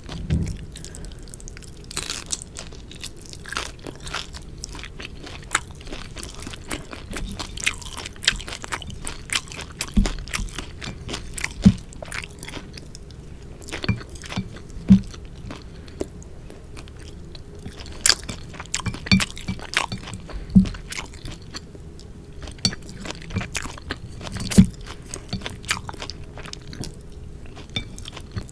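Close-miked eating sounds of a person chewing sukiyaki with vermicelli: continual wet crackles and crunches with irregular clicks, and a few louder bites or gulps scattered through.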